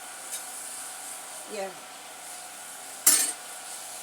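Steady background hiss, with one short, sharp, loud noise about three seconds in.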